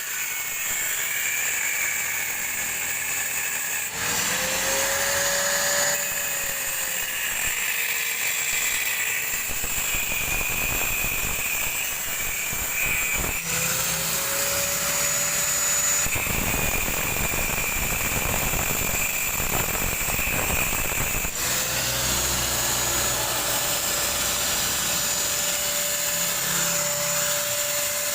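Handheld electric power tool working on a refrigerator compressor's steel casing to open it up. Its motor whine rises and settles three separate times, with rough cutting noise in between.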